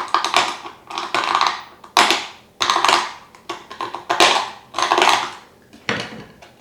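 Thin plastic drinks bottle crackling and crinkling in irregular bursts as a knife is twisted round in a hole in its side to widen it.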